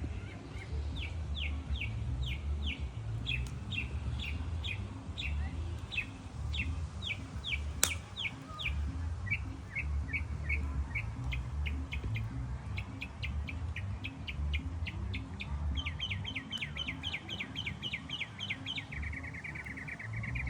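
A bird singing a long series of short downward-sweeping chirps, about two a second, which speed up and end in a fast trill near the end. A low uneven rumble runs underneath, and a single sharp pop comes about 8 seconds in.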